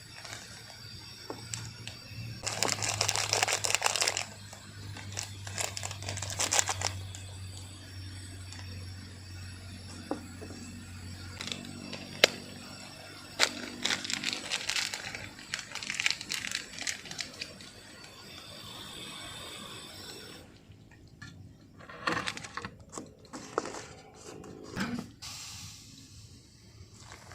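Crinkling and rustling with many scattered clicks and knocks, in irregular bursts, over a low steady hum that fades out about halfway through.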